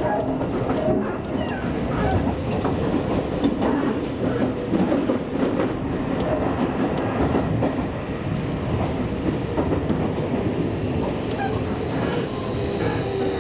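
Seibu Railway commuter train running along the track, wheels clattering over the rails with a steady rumble. In the second half a faint whine slowly falls in pitch.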